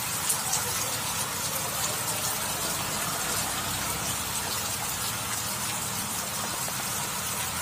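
Heavy rain falling steadily on a flooded road and on standing water.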